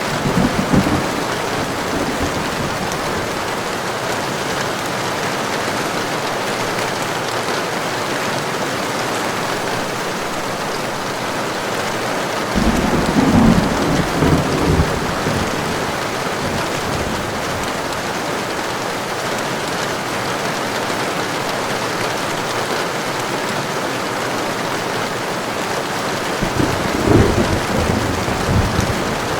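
Heavy rain falling steadily, with low rolls of thunder: a short one at the start, a longer one about halfway through, and another near the end.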